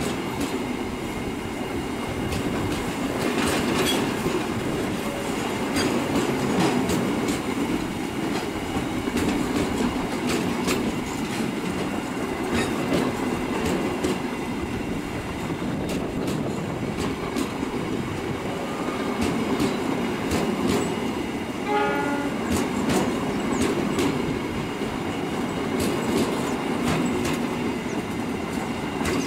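Long train of empty flat wagons rolling slowly past on freshly repaired track: a steady rumble of wheels with scattered clicks over the rail joints. A short horn-like tone sounds about three-quarters of the way through.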